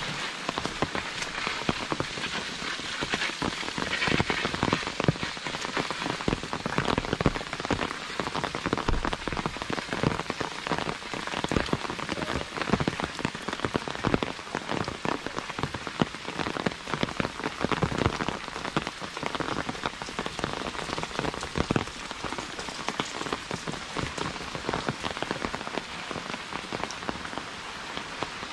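Heavy rain falling steadily, with many large drops striking the umbrella overhead as irregular sharp, close taps.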